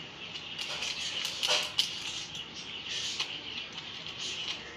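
Pet budgerigars chattering and chirping steadily. A few knocks and creaks, loudest about a second and a half in, from a plastic water bottle being handled while saline is mixed into it.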